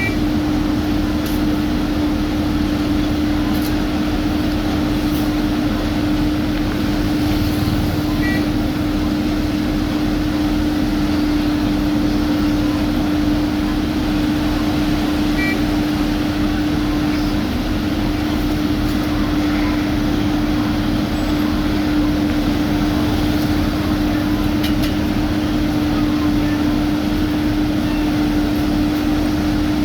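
Heavy diesel road-paving machinery running steadily, with a constant low hum and no change in engine speed.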